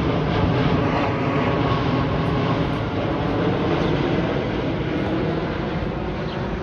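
Jet engines of a Boeing 787-8 airliner going by: a steady, dense rush of jet noise that slowly fades.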